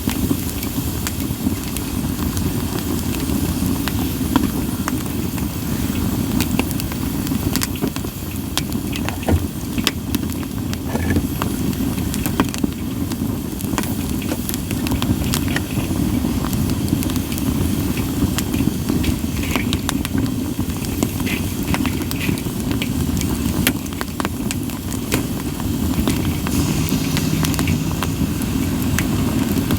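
Campfire of split sawtooth oak (kunugi) logs burning: frequent sharp crackles and pops over a steady low rumble.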